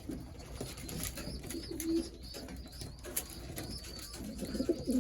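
Racing pigeons cooing in the loft, with low coos about two seconds in and again near the end, over a thin, high, wavering chirp that repeats throughout and a few light clicks.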